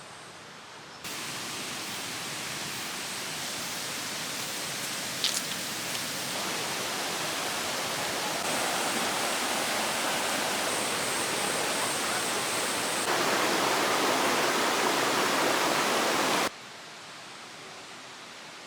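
Valley stream water rushing, a steady hiss that starts suddenly about a second in, gets louder in a few abrupt steps, and cuts off sharply near the end.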